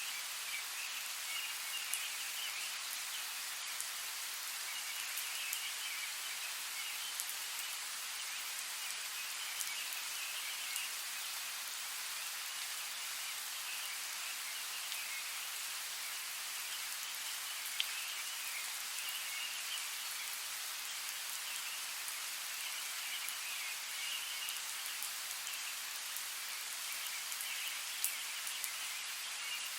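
Steady rain falling through forest trees, a constant hiss with scattered single drops ticking sharply. Faint warbling calls come and go every few seconds in the background.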